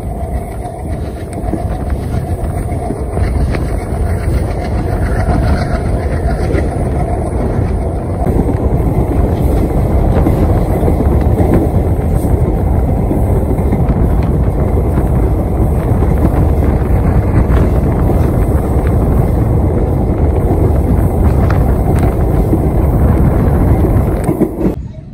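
Passenger train running at speed, heard from an open coach doorway: a loud, steady rumble of wheels on the track mixed with rushing air, with faint rail clicks. The sound drops away abruptly near the end.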